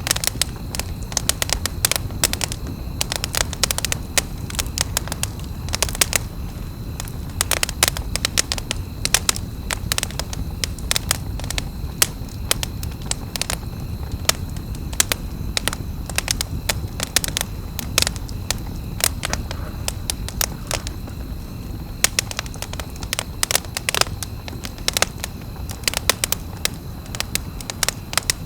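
Wood campfire crackling and popping: a dense, irregular run of sharp snaps, several a second, over the low steady rush of the burning fire.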